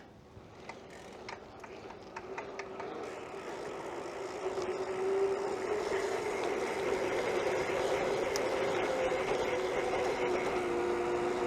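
A BMX bike under way: tyre noise and wind on the microphone, building steadily as the bike picks up speed and then holding steady, with a few light clicks in the first few seconds.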